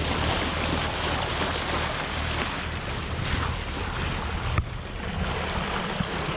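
Boat motoring along: a steady low engine hum under wind on the microphone and water noise, with one sharp click about four and a half seconds in.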